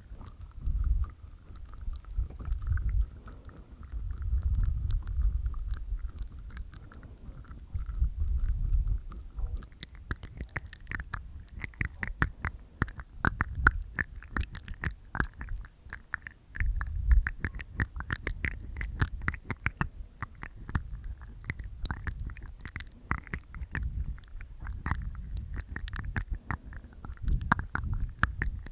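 Close-miked ASMR mouth sounds made inside the mouth with the tongue and teeth. Soft, low wet movements for the first ten seconds or so, then a fast, dense run of small wet clicks.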